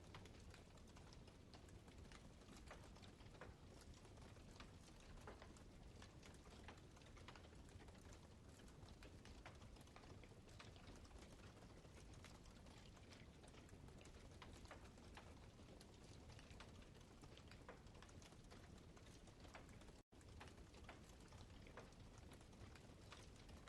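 Wood campfire crackling softly: a steady scatter of small pops and snaps over a low rumble, with a split-second dropout near the end.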